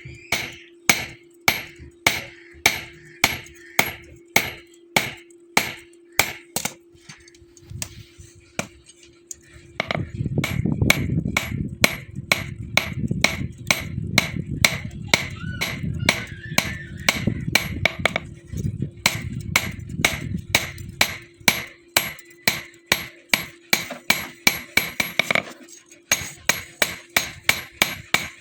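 A hand hammer striking hot bearing-ring steel on an anvil in a steady rhythm, about two to three blows a second, each blow ringing. A low rumble sits under the blows from about ten seconds in until past twenty seconds, and a steady hum runs beneath throughout.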